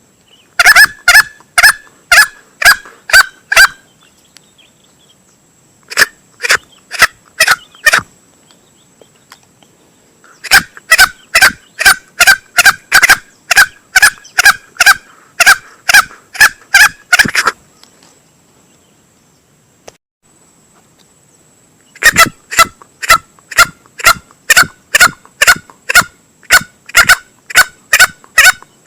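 Male green junglefowl calling as a hunting lure. It gives short, sharp calls in quick, even series of about two a second, in four bouts separated by pauses of a few seconds.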